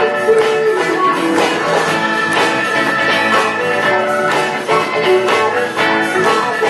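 A live band playing the instrumental intro of a pop-rock song, with a steady beat and no vocals yet.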